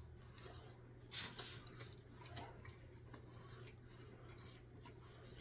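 Near silence with faint eating sounds: quiet chewing and small mouth clicks, with one brief louder noise about a second in.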